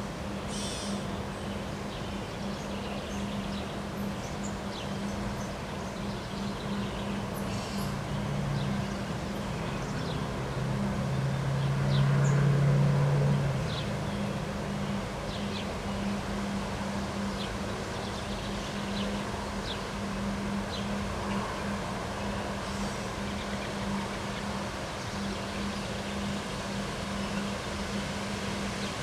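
Outdoor ambience: scattered short bird chirps over a steady low hum. A lower engine-like drone swells in the middle and cuts off suddenly about thirteen and a half seconds in.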